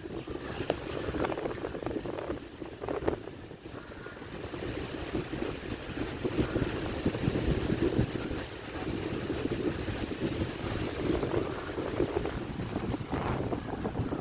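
Wind buffeting the microphone: an uneven, crackling rumble that swells and dips.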